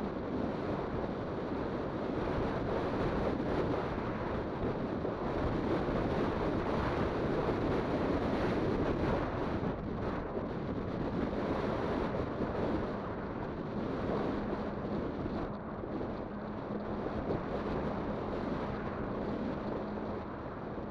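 Wind buffeting the microphone and tyre noise from a Kugoo Kirin V5 e-bike riding along, a steady rushing sound. About two-thirds of the way in, a faint steady hum joins it.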